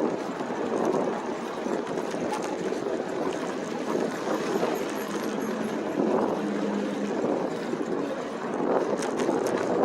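Wind buffeting the microphone of a phone mounted on a moving e-bike: a steady, gusting rush. A faint steady hum joins it for a second or two about midway.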